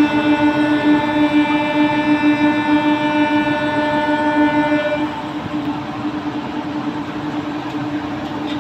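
Electric train moving slowly along the platform: a steady multi-tone sound over a low hum drops its higher tones about five seconds in, leaving the hum.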